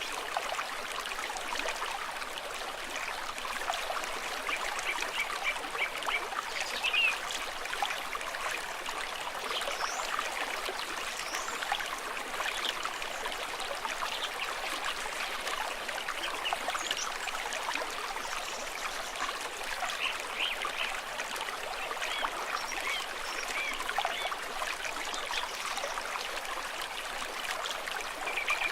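A shallow stream trickling and babbling steadily.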